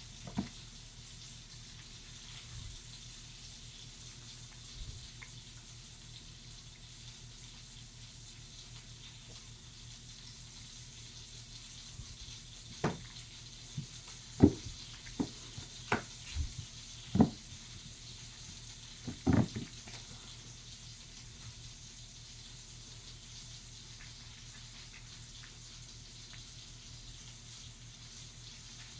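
Steady low hiss, with a run of about eight sharp knocks spread over several seconds around the middle.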